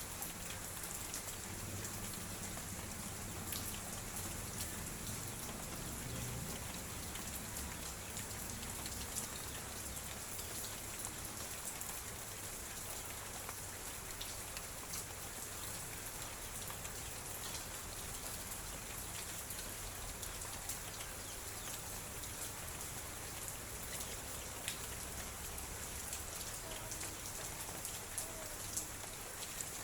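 Light drizzle falling: a steady hiss of rain with many scattered ticks of drops striking a surface.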